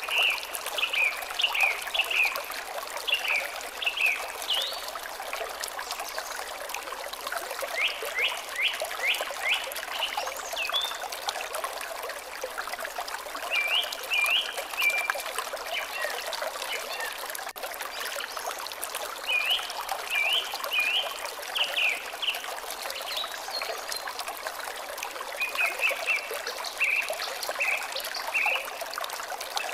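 Water trickling steadily, with a songbird singing a short phrase of quick chirps about six times, a few seconds apart.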